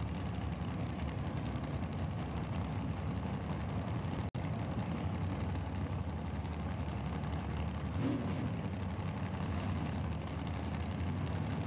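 Drag race car's engine idling at the starting line after its burnout, a steady low drone. The sound cuts out for an instant about four seconds in.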